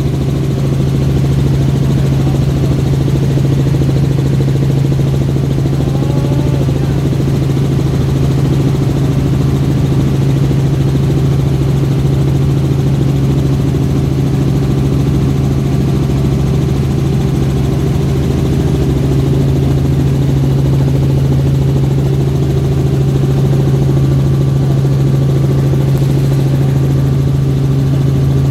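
Helicopter in flight, its engine and rotors making a loud, constant low drone with a strong steady hum.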